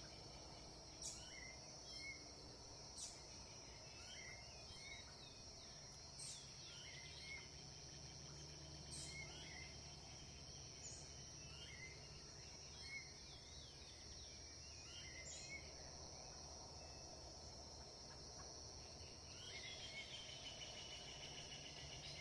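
Faint songbirds calling in short, sharp phrases every second or two over a steady high insect drone; near the end a rapid trill joins in.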